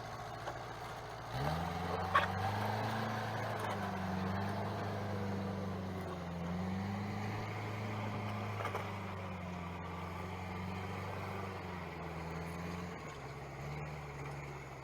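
A vehicle engine comes in about a second and a half in and runs steadily, its pitch wavering slightly with load. A sharp click is heard shortly after the engine starts.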